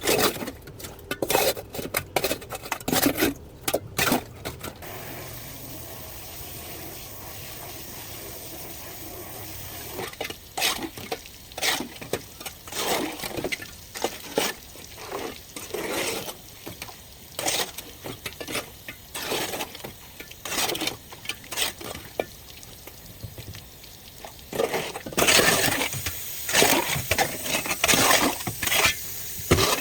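Irregular clinks and knocks of hard objects being handled, with a steady hiss-like noise joining in near the end.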